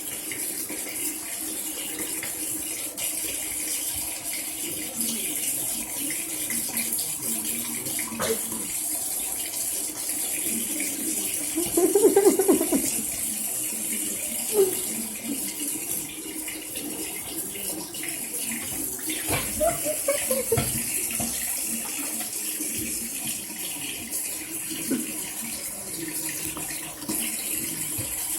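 Water running steadily from a tap into a sink. Two short pitched calls cut in over it, a loud one near the middle and a falling one about two-thirds through.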